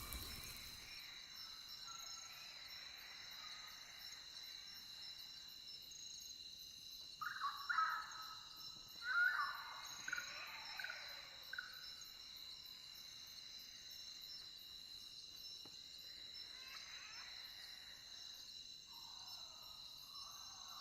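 Night nature ambience: a steady, high-pitched insect chorus, with a few louder animal calls about a third of the way in and again near the end.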